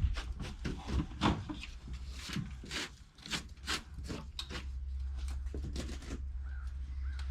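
Irregular scrapes, rustles and light knocks from hands and tools working at close range, about a dozen over six seconds, then a steady low rumble from about six seconds in.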